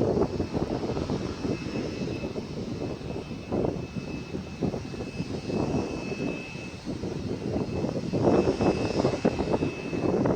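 Boeing 787 jet engines running, a rough rumble that swells and falls unevenly, with a faint steady high whine above it.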